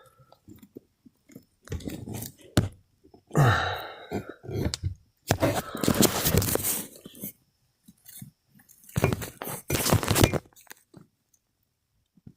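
Irregular bursts of rustling and crunching with a few sharp knocks, as things are handled and moved about close to the microphone, broken by short quiet gaps.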